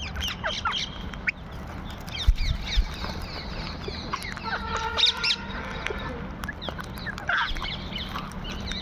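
A flock of parrots calling with many short, shrill chirps that glide in pitch, overlapping throughout, and one longer, steadier call about halfway through.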